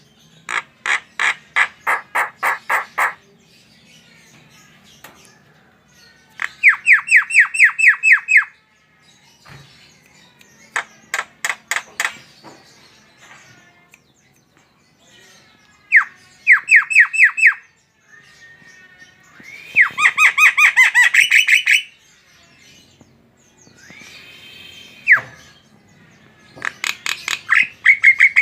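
Javan myna calling vigorously: about six bursts of rapid, repeated harsh notes, each burst lasting one to two seconds, with short pauses between them.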